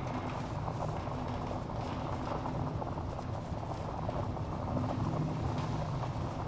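Log fire burning in a fireplace: a steady low rumble of flames with dense crackling and occasional sharper pops of burning wood.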